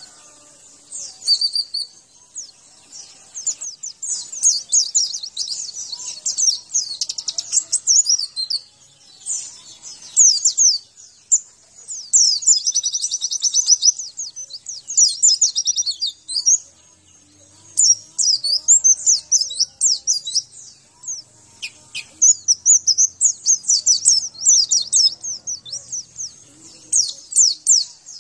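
White-eye (pleci) singing: rapid, high-pitched chattering trills in phrases of a few seconds each, broken by short pauses.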